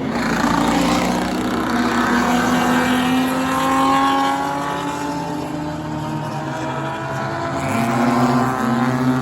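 Several enduro race car engines running at speed on a short oval track, overlapping, their pitch rising and falling as the cars accelerate and go past.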